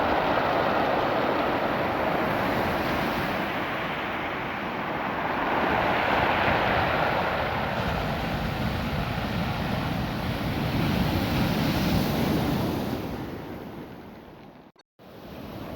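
Ocean waves washing up a beach of small rounded stones, the surf swelling and ebbing about every five to six seconds. The sound drops out for a moment near the end, then comes back.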